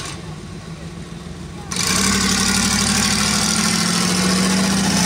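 Monster truck engine running, then jumping suddenly much louder about two seconds in and holding a steady, high-pitched note.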